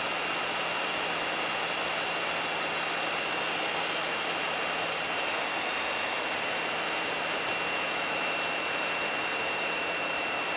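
Steady cabin noise of a Mooney M20K's engine running, an even hiss with a thin high-pitched whine held over it.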